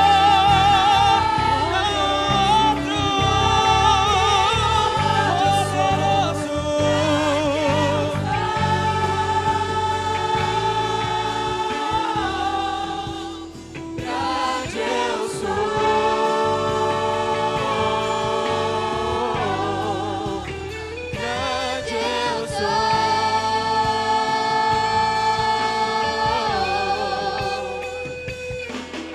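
A church choir singing a gospel worship song over instrumental accompaniment. The voices hold long notes with vibrato, with short breaks between phrases.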